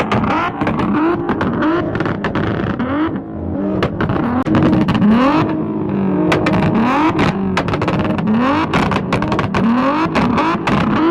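Car engines revved hard again and again, the pitch climbing and falling several times every couple of seconds. Many sharp cracks and pops run through it.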